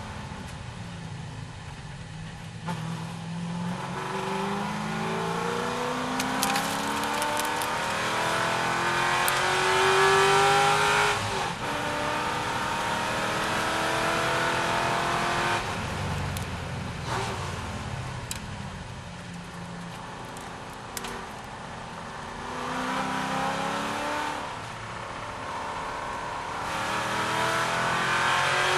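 C6 Corvette V8 at racing speed, pulling up through the gears. The engine note climbs and drops back at each shift, is loudest about a third of the way in, then falls away suddenly as the car comes off the throttle. It runs lower through the middle and climbs hard again near the end.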